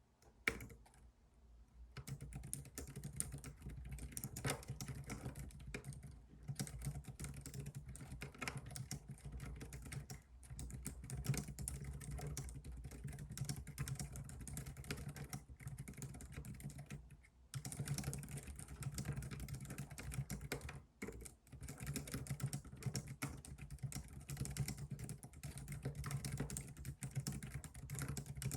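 Continuous fast typing on a computer keyboard, a dense patter of key clicks that starts about two seconds in and breaks off briefly a few times.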